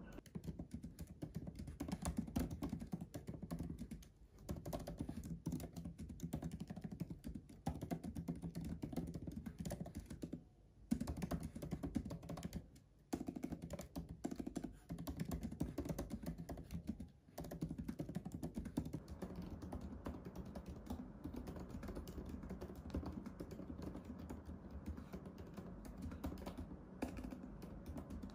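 Typing on a MacBook laptop keyboard: a fast, continuous run of soft key clicks, broken by a few brief pauses.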